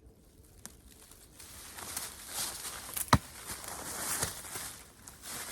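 Footsteps rustling over the forest floor while firewood is carried out by hand, with one sharp knock a little after three seconds in.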